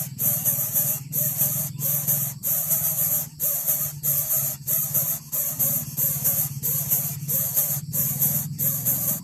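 Greater coucal chick hissing in a long run of rhythmic pulses, about one and a half a second, over a low steady hum.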